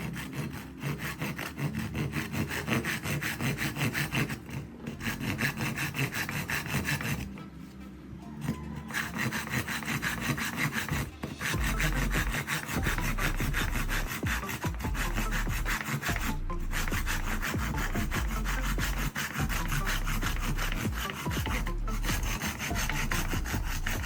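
A saw cutting through wood in continuous strokes, with a short pause about five seconds in and a longer lull around eight seconds.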